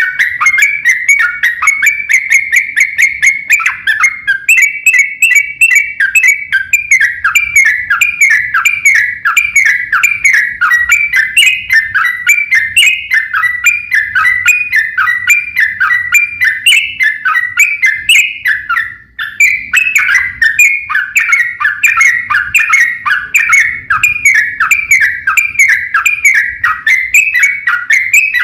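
Trucuk (yellow-vented bulbul) singing in a fast, unbroken 'ropel' run of short, falling whistled notes, several a second, with one brief break about nineteen seconds in.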